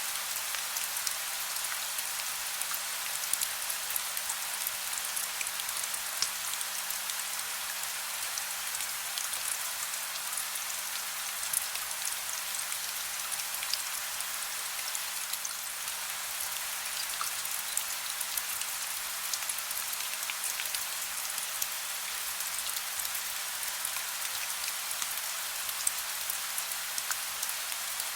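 Soft, steady rain: a dense even hiss sprinkled with many small ticks of individual drops.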